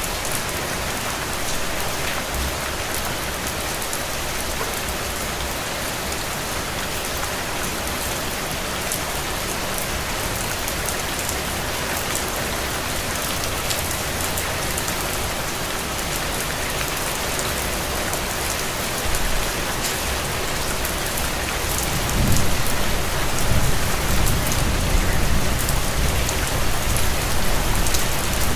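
Steady rain on a window glass, a dense even hiss with scattered sharp drop ticks. A low rumble swells in about three-quarters of the way through and runs on, making the whole a little louder.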